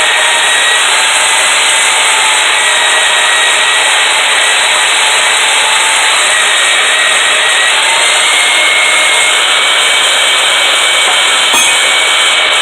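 A power tool cutting quarter-inch steel flat bar, running as a loud, steady, hissing noise with a faint whine through it.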